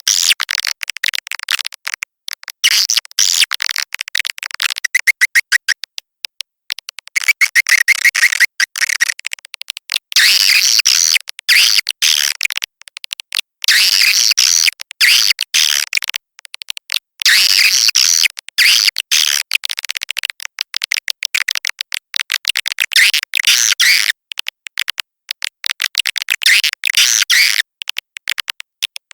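Swiftlet lure sound: a recording of edible-nest swiftlet calls, rapid high chirps and twitters in dense bursts with short gaps, played to draw swiftlets into a nesting house. Twice in the first ten seconds a steadier, lower whistling tone runs under the chirps.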